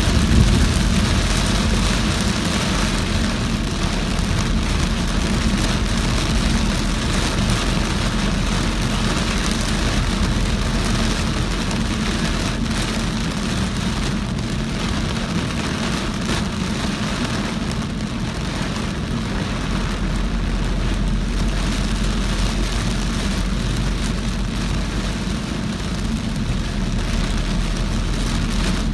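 Heavy rain falling on a moving car, mixed with tyre noise on a wet, flooded road and a steady low rumble from the car.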